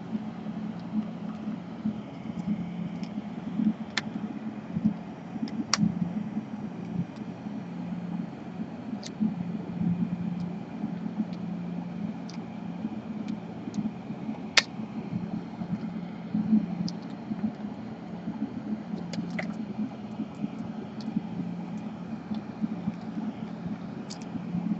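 Occasional sharp, isolated clicks of small laptop parts and tools being handled during disassembly, over a steady low background hum.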